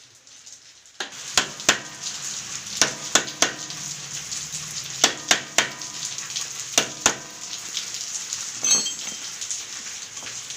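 Sharp metallic taps at irregular intervals, a hammer striking to fold the tab lock washer over the sprocket nut and lock it. A steady low hum and hiss run under the taps.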